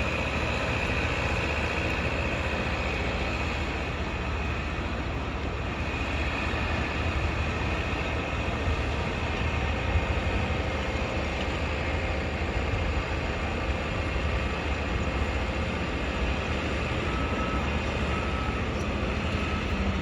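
Steady din of a construction site and city traffic with a low rumble; a passing train's high wheel squeal fades out over the first few seconds. A vehicle's reversing alarm beeps repeatedly near the end.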